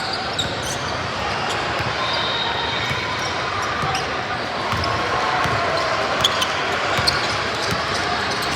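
Basketball bouncing on a gym floor during play, with sharp knocks and a few short high squeaks, over a steady hum of crowd chatter in a large hall.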